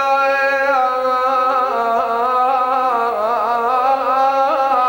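A man's voice chanting an Iraqi Shia funeral lament (nai), holding one long melismatic note between words with wavering ornaments about three seconds in.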